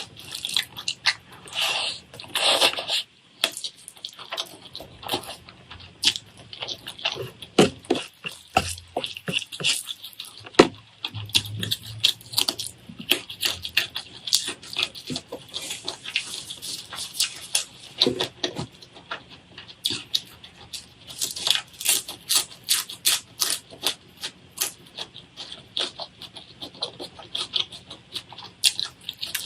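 Close-up eating sounds: a dense, irregular run of wet clicks and smacks from chewing.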